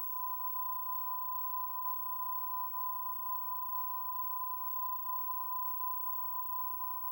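Steady, slightly high-pitched test tone from a VHS tape's white-screen segment (WSOD), one unbroken pitch held without change over faint tape hiss.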